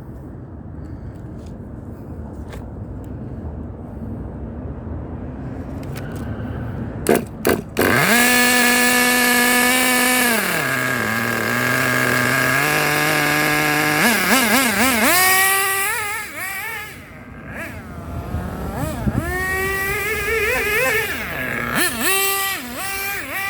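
Small nitro (glow-plug) engine of an RC car running and revving hard, after two sharp clicks. About eight seconds in it climbs quickly to a high, steady pitch and drops back to a lower hum a couple of seconds later. Then it runs through repeated quick blips and revs that rise and fall.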